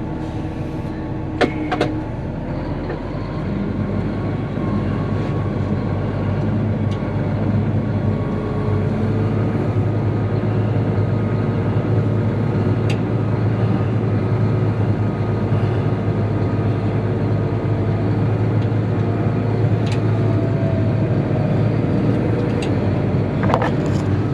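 Steady drone of the Challenger 675D tractor's engine running, growing a little louder a few seconds in, with a few faint clicks.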